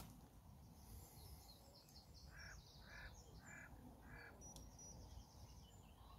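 Faint bird calls: four short calls about half a second apart, with fainter higher chirping behind them.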